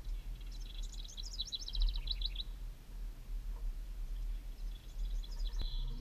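A small bird calling: a fast run of high chirps lasting about two seconds and falling slightly in pitch, then a second, shorter run near the end, over a steady low rumble.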